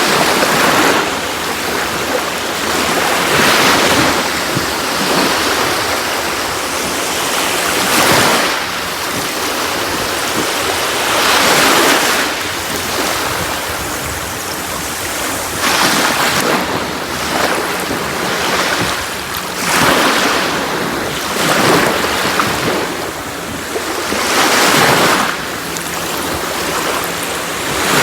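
Sea waves breaking and washing on a beach, a continuous surf hiss that swells with each wave every few seconds.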